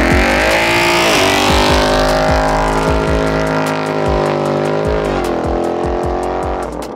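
Whipple-supercharged 5.0 V8 of a 2024 Mustang GT revving up and holding high revs as the car pulls away spinning its rear tyres. The pitch dips briefly about a second in and again near five seconds, and the engine note drops off just before the end.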